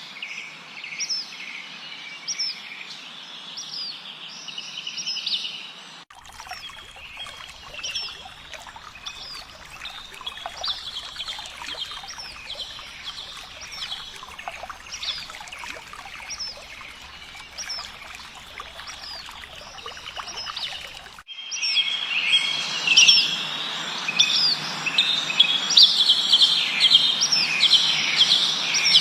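A chorus of songbirds chirping, with short downward chirps repeated about once a second over a faint background hiss. The background changes abruptly twice, about six and twenty-one seconds in, where recordings are spliced, and the birds are louder after the second change.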